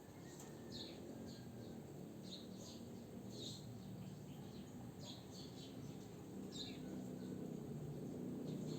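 Faint, scattered short chirps of small birds, about a dozen, over a low steady hum that grows louder near the end.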